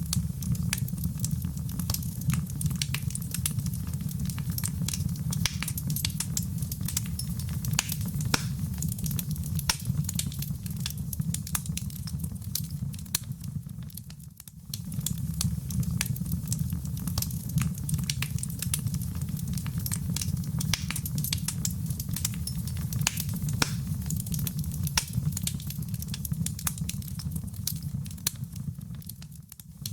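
Wood fire in a fireplace crackling, with many sharp pops and snaps over a steady low rumble of flame. It dips briefly about halfway through.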